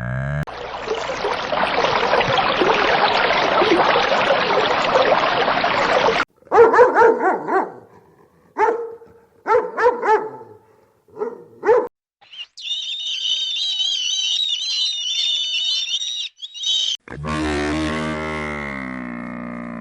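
A run of different animal sounds cut one after another. A dense noisy stretch comes first, then a dog barking in short separate barks, a high warbling call, and a low drawn-out call near the end.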